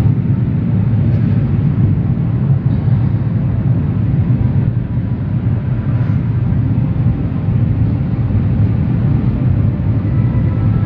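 Automatic car wash machinery running with a steady, loud low rumble.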